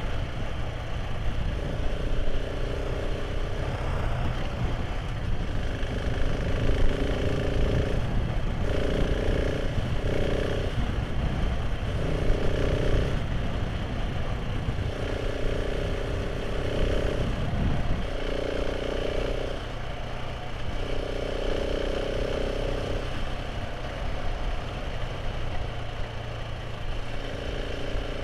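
Motorcycle engine running while riding, its note coming and going every few seconds as the throttle changes, over heavy wind rumble on the microphone.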